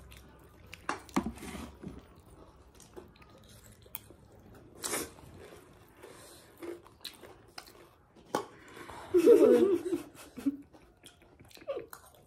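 Close-up eating sounds: chewing and crunching on chatpat, a spicy puffed-rice snack, with scattered small clicks of utensils against a bowl. A short voice sound comes about nine seconds in.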